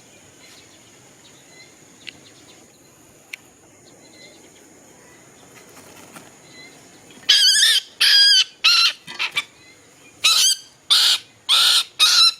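A bird giving loud, harsh calls in quick succession, about nine of them, starting about seven seconds in. Before that there is only a faint, steady high drone like insects, with a few faint chirps.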